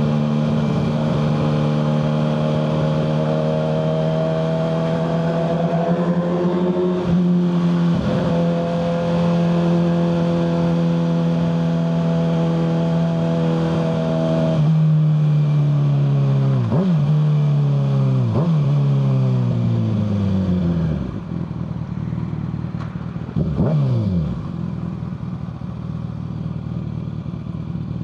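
Kawasaki ZX-6R 636 inline-four engine through a Yoshimura full exhaust, pulling steadily with two quick gear changes. It then slows, the pitch falling through several downshift blips. It settles to a lower idle about three quarters of the way through, with one short rev.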